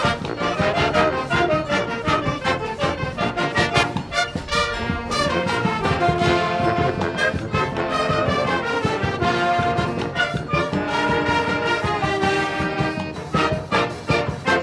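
Brass band playing a forró-style arrangement, with trumpets and trombones carrying the melody over a steady percussion beat.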